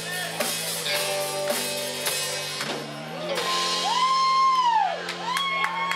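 Live rock band playing the closing bars of a country-rock song on electric guitar and drums, with held chords. In the second half, long rising-then-falling whoops ring out loudly over the band.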